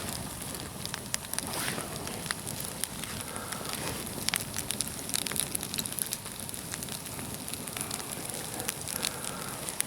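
Wood campfire of green (unseasoned) logs burning, crackling steadily with many irregular sharp pops.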